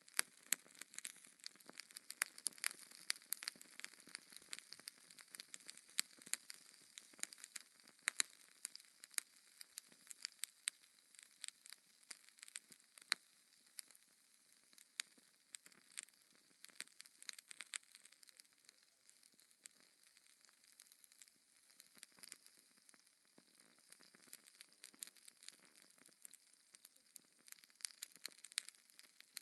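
Fire crackling in a fireplace: irregular sharp pops and snaps over a soft hiss.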